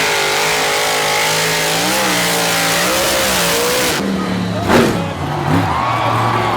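Monster truck engine running and revving, its pitch rising and falling, with a sharp surge in revs about three-quarters of the way through.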